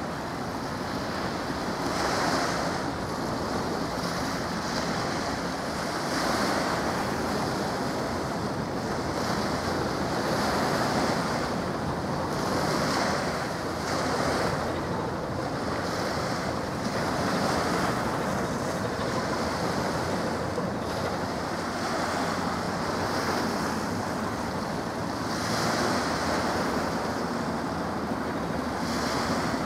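Steady rushing of wind on the microphone mixed with the sound of open water, swelling and easing every couple of seconds.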